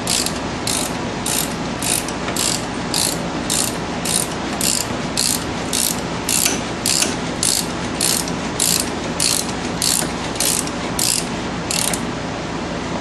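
Hand ratchet wrench clicking in steady strokes, about two a second, as a brake caliper bolt is turned down; the clicking stops about twelve seconds in.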